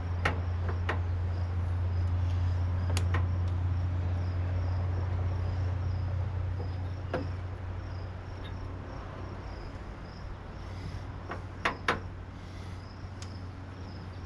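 A handful of sharp clicks from a screwdriver working at the water heater's metal clips, two in quick succession near the end, over a steady low hum that eases after about six seconds. A cricket chirps steadily in the background.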